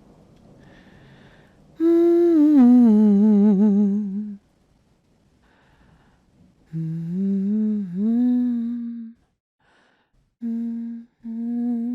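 A woman humming a slow lullaby in long, wavering phrases: a first phrase about two seconds in that falls in pitch, a second in the middle, and two short notes near the end, with brief pauses between.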